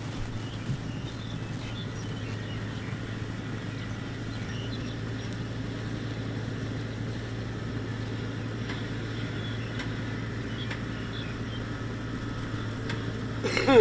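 Kubota DC-70X rice combine harvester running steadily, a constant low hum. A brief louder sound near the end.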